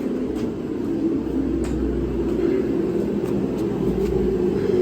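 A steady mechanical hum with a low rumble beneath it and a few faint clicks.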